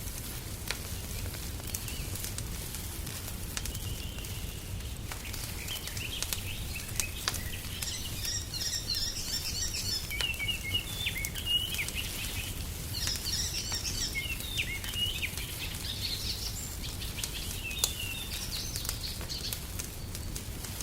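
Wood fire crackling with scattered sharp pops over a low steady rumble. From about six seconds in, small songbirds chirp and twitter in quick runs of high notes, coming and going until near the end.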